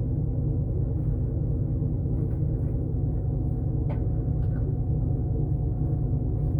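Engine idling steadily with an even low rumble, with a couple of faint clicks about four seconds in.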